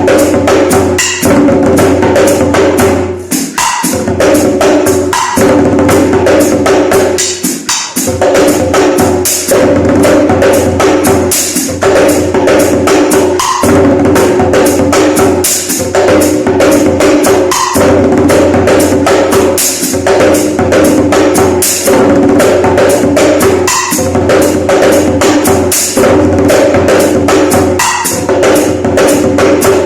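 Hand drumming on a broken djembe: a fast, continuous rhythm of strokes, with steady pitched tones held underneath and a short break in the pattern around four and eight seconds in.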